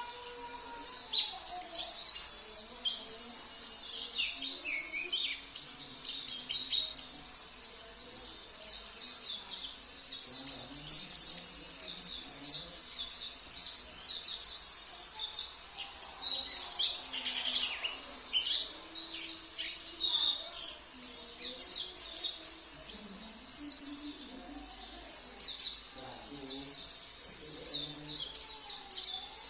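Songbirds singing without pause: rapid, high chirps and twittering trills from a pleci (white-eye) song track mixed with the songs of canaries and other small songbirds.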